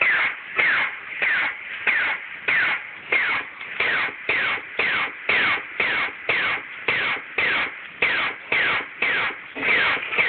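Laser tag gun firing over and over, an electronic zap that falls in pitch with each shot, repeated about twice every second.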